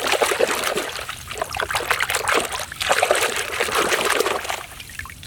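Water trickling and splashing as muddy toy racing cars are washed by hand. The sound is uneven, with many small clicks.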